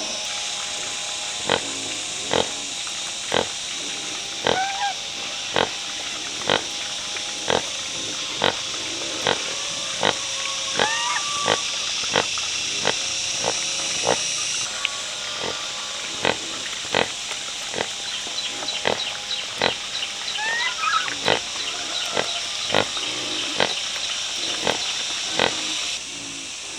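Pigs, with a few short, high, rising squeals over a steady hiss, and a sharp knock repeating about once a second.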